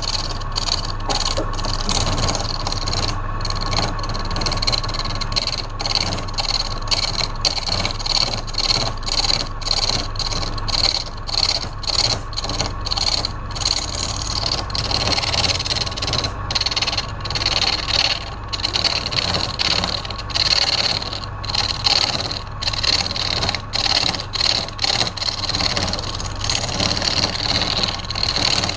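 Wood lathe running while a turning tool cuts the spinning wood. The cut makes a steady scraping hiss in short strokes, broken by brief gaps between passes, over the lathe motor's constant hum.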